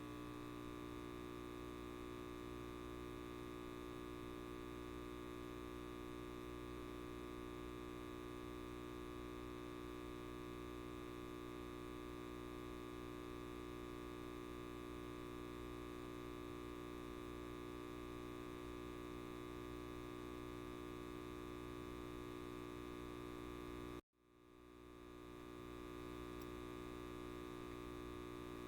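Light bulb buzzing: a steady electrical hum with many overtones. About 24 seconds in it cuts out suddenly, then fades back in over a couple of seconds.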